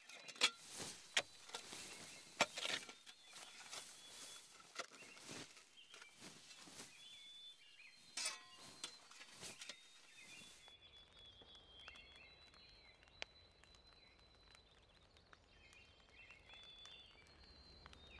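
Faint outdoor ambience: scattered rustles and clicks with short chirps, giving way about ten seconds in to a quieter steady background with faint bird chirps.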